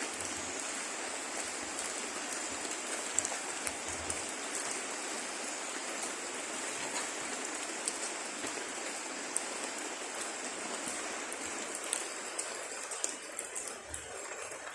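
Steady rain pattering on large teak leaves, an even hiss dotted with the sharp ticks of single drops.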